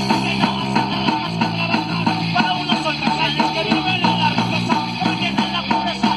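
Rock band playing, guitar to the fore, with a steady beat.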